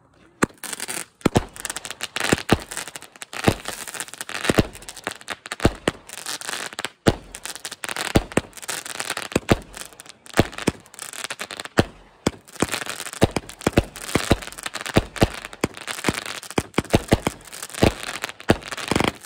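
Consumer aerial fireworks firing a rapid string of shots: sharp bangs one to three times a second, with crackling between them, starting suddenly and running on without a break.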